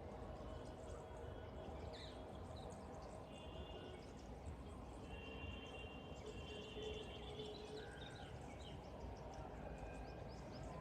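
Birds calling, with short chirps and a few held whistled notes, over a steady low background rumble.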